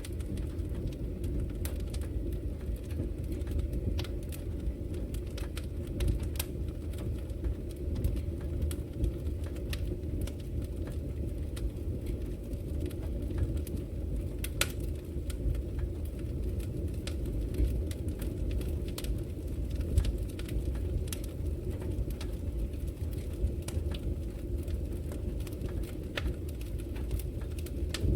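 Wood fire burning in a fireplace: a steady low rumble with irregular sharp crackles and pops from the logs, a few louder snaps among them.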